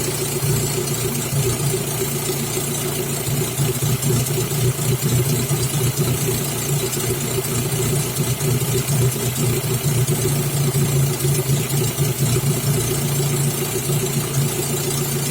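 Daewoo/GM F16D3 1.6-litre four-cylinder petrol engine idling evenly, with no misfire or shake. The exhaust rumbles because the muffler is holed.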